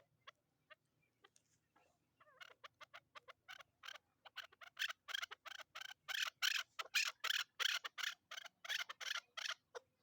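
Chukar partridge calling: a long run of short repeated calls, about four a second, that starts about two seconds in, grows louder and stops just before the end.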